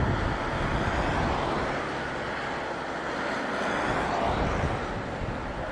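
Jet noise from a CRJ-1000 regional jet's two rear-mounted turbofans coming in to land, a steady broad rush, mixed with gusty wind buffeting the microphone.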